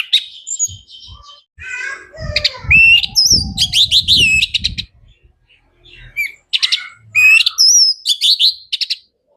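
Orange-headed thrush singing in two bursts of varied song, slurred whistled notes mixed with rapid trills, with a short pause between them. Low thuds sound under the first burst.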